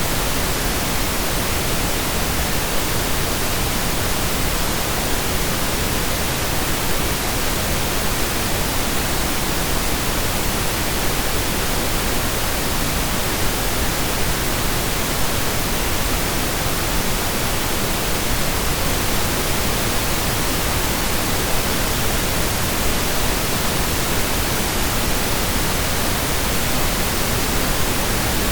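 Steady synthesized pink noise: an even, unchanging hiss spread across the whole range, like steady rain or a waterfall heard from indoors.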